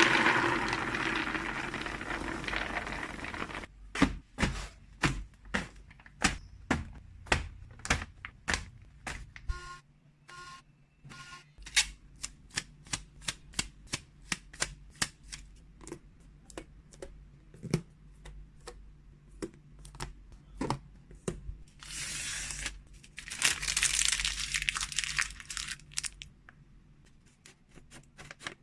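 Plastic packaging rustling and crinkling, then a long run of separate clicks and taps as containers and packets of freeze-dried cat treats are handled and set down, about one or two a second. About a third of the way in there are three short electronic beeps, and more crinkling comes near the end.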